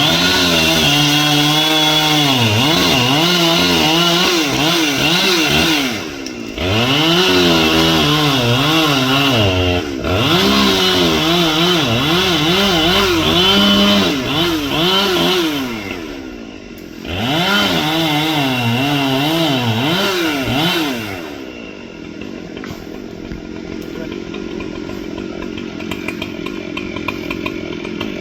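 Large two-stroke chainsaw cutting wood at full throttle, its engine pitch wavering as it loads and frees up in the cut. It comes in four long stretches with brief let-offs between them. About 21 s in it drops back to a quieter, steady idle.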